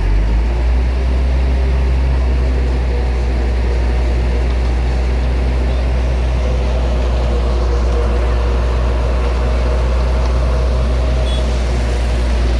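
Heavy vehicle engine running steadily with a deep, low drone that swells up at the start.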